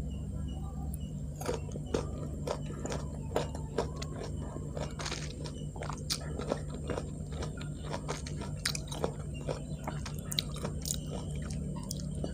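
Close-miked chewing of a crisp young (unripe) mango slice coated in peanut sambal: a run of many short, sharp, wet crunches.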